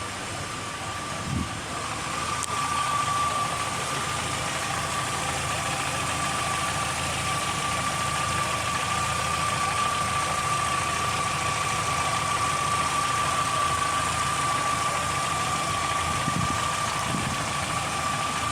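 Volkswagen Beetle engine running steadily at idle, with a steady high whine over it and a brief knock about a second and a half in; it gets a little louder about two seconds in.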